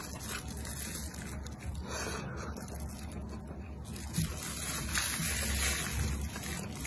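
Wet chewing and mouth sounds of someone eating soft braised pig's trotter, with a few small soft clicks.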